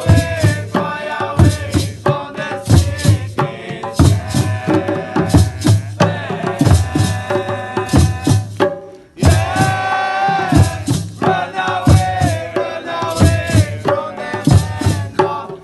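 Nyahbinghi drumming: hand drums beating a steady rhythm under a group of voices chanting. The music breaks off briefly a little past halfway, then resumes.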